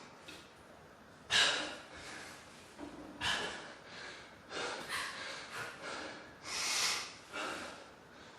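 A man breathing hard and gasping, with loud breaths every second or two, out of breath from a burpee fitness test.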